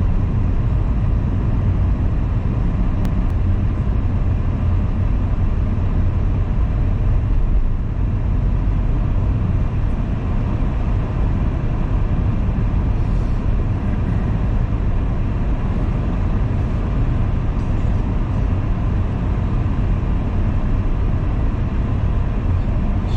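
Car driving at a steady pace, a continuous low road rumble of engine and tyres.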